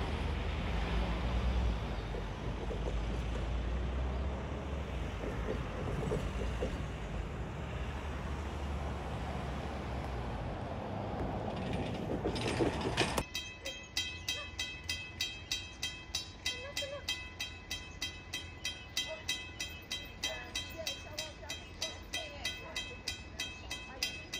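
Diesel railcar train passing close by, a loud steady rumble of engine and wheels. About halfway through the sound cuts abruptly to a quieter background with a regular ticking, a little over two a second.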